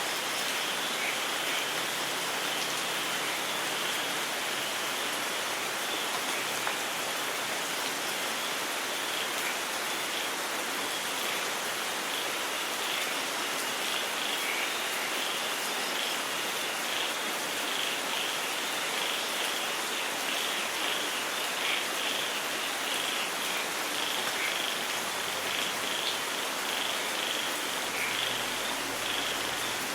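Steady heavy rain falling, with frogs calling over it in many short, high, repeated notes from about ten seconds in. A faint low rumble comes in near the end.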